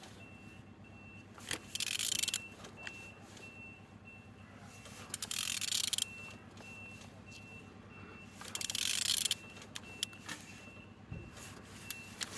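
Renault M9T diesel engine being turned over by hand, heard as three short noisy bursts of under a second each with a few clicks in between. A faint high electronic beep repeats two or three times a second throughout.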